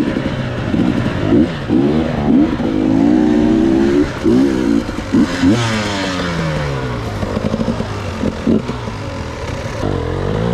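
Enduro dirt bike engines revving up and down over and over, more than one engine at once, their pitch rising and falling as the riders work the throttle.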